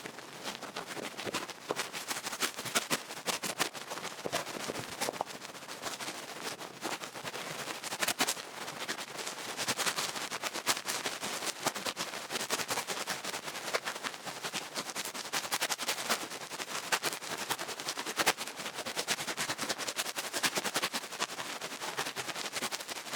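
Duck-feather ear-pick stick brushing and scraping close to the microphone, a dense, continuous crackling and scratching.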